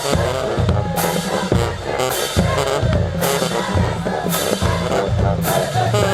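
HBCU marching band playing a tune: brass over pounding bass drums, with cymbal crashes about once a second.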